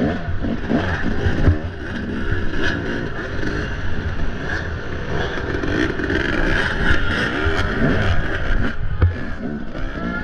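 Off-road dirt bike engine being ridden hard, its revs rising and falling constantly, with a few sharp knocks.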